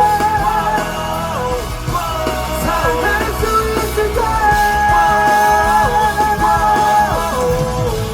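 Live rock band playing a break between vocal lines: a long held, bending melody line over drums and bass.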